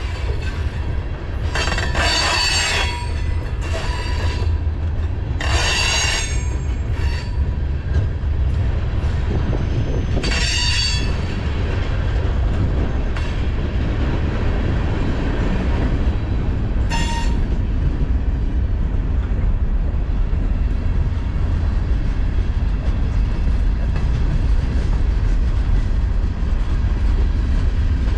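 Freight cars of a mixed freight train rolling past with a steady low rumble, broken by four short bursts of high-pitched steel wheel squeal in the first twenty seconds.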